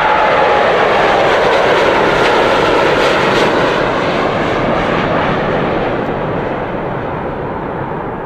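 Airplane engine roar with a faint whine that drops slightly in pitch near the start, the whole sound slowly fading over the last few seconds.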